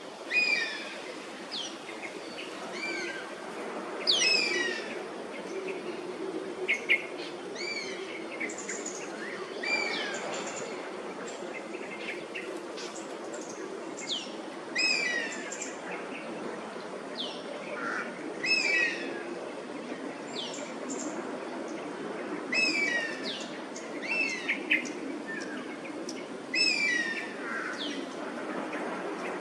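Oriental honey buzzard calling repeatedly: high whistled calls that sweep in pitch, coming every couple of seconds, with fainter calls of a second buzzard between them. A steady low hum runs underneath.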